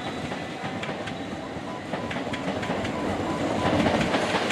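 Electric multiple-unit passenger train running through the station, wheels clicking over the rail joints, growing louder toward the end.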